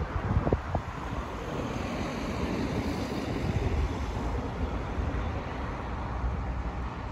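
Wind buffeting the microphone over a low, steady outdoor rumble, with a couple of brief knocks in the first second.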